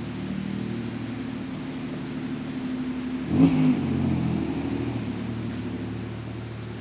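1992 Toyota pickup's V6 idling through a 3-inch exhaust and one-chamber Flowmaster muffler, with a single quick throttle blip about halfway through: the pitch rises sharply and falls back to idle.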